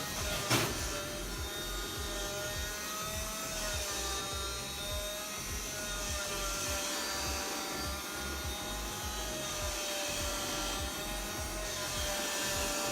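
A small motor running with a steady, slightly wavering whine, with one sharp knock about half a second in.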